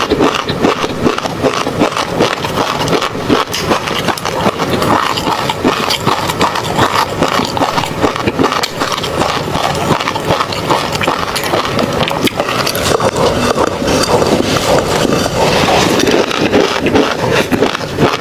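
Close-miked chewing of tobiko (flying fish roe): a dense, continuous run of small wet pops and crackles.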